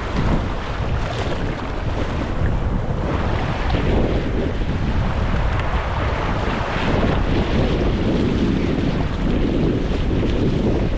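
Gusty wind buffeting the microphone, heavy and low, over the wash of choppy sea water around a kayak.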